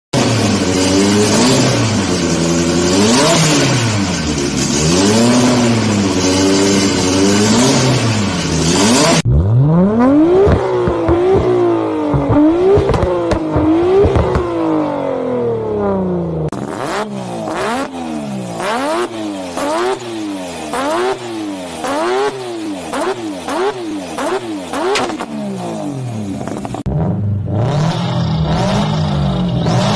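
Car engines revved one after another, four different engines in turn, each pitch climbing and dropping with repeated throttle blips. The third engine has sharp crackles between its revs.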